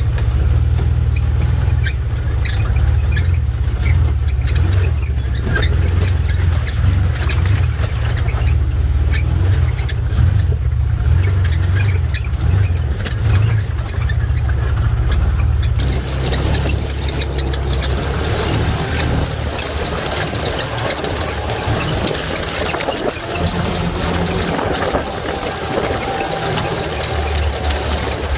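Can-Am off-road buggy's engine running as it drives an off-road course. About halfway through, the low engine note drops back and a rougher, noisier rumble takes over.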